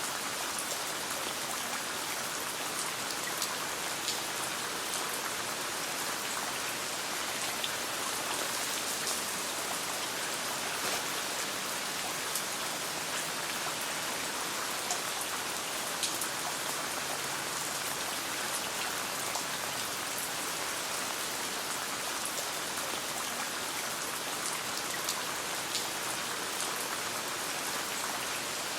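Steady rain falling, an even hiss with frequent sharp little ticks and pops scattered through it.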